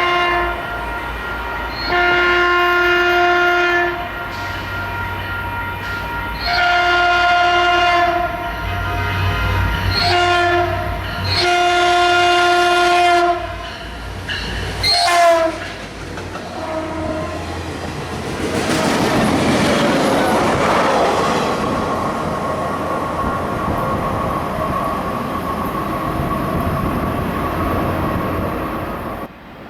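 Locomotive air horn sounding a multi-note chord in long blasts, a short blast and a final long blast: the grade-crossing signal. About halfway through, the train rushes past with a swelling rumble of wheels on rail.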